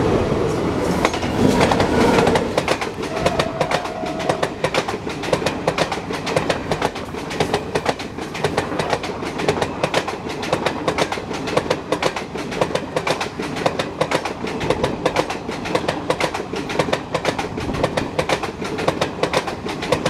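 Passenger express coaches running past at speed close to the track, their wheels clattering rapidly and continuously over the rail joints, heaviest in the first two seconds.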